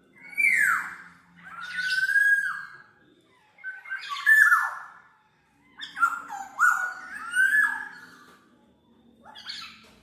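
Black-naped oriole (kepodang mas) calling in about five bursts, each made of calls that slide downward in pitch, some strung in quick runs of three or four, with short pauses between bursts.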